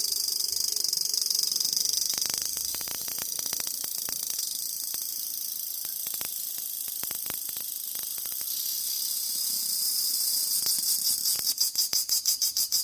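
Cicadas calling: a loud, high-pitched buzzing drone that holds steady, then breaks into a rapid pulsing of about five beats a second near the end.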